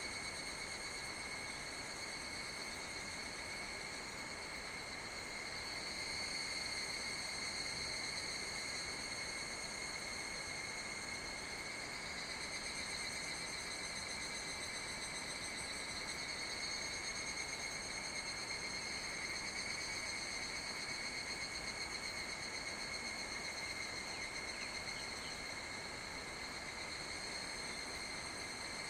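Insects trilling steadily in one continuous high-pitched trill, over a steady rush of river water.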